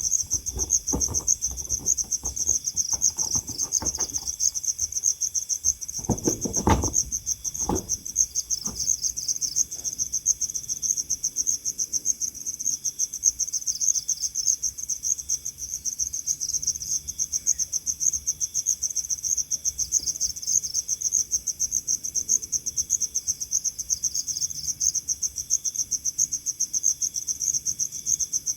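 Insects chirring in a steady, fast-pulsing high trill. A few soft thuds or rustles come in the first nine seconds, the strongest about seven seconds in.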